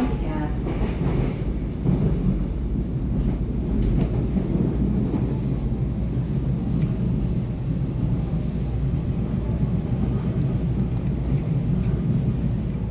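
Taiwan Railways EMU700 electric commuter train running at speed, heard from inside the carriage: a steady, loud, low rumble of wheels on rails and running gear, with a few faint clicks.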